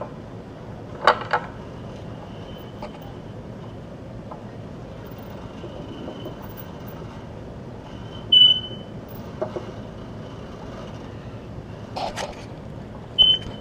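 Tower hoisting gear squealing: a faint, thin, high metallic squeal that runs on and off, with a loud short squeak about 8 seconds in and another near the end. A few sharp knocks come about a second in and about 12 seconds in.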